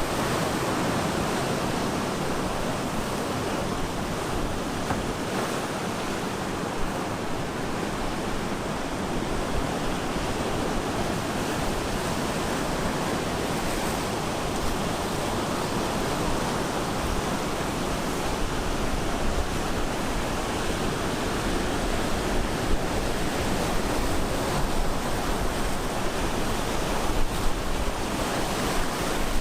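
Ocean surf breaking on a beach: a continuous, steady wash of waves with low rumble underneath.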